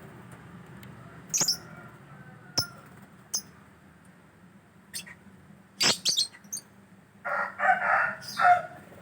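Scattered short, high bird chirps, then a louder, chicken-like clucking call in three bursts near the end.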